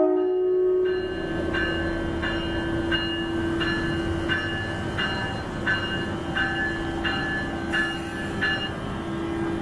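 The end of a locomotive horn blast, then the electronic bell of an NJ Transit ALP-45DP locomotive ringing steadily, a strike about every 0.7 seconds, over the rumble of the passing train.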